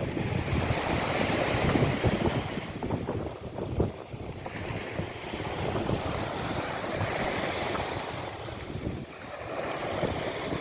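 Sea waves washing on the shore, the hiss swelling and easing twice, with wind buffeting the microphone.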